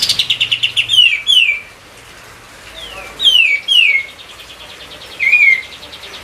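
A kapas tembak songbird singing: a fast rattling trill, then loud, sharply falling whistled notes in small groups, two about a second in, three around the middle and one near the end. A fainter trill goes on underneath.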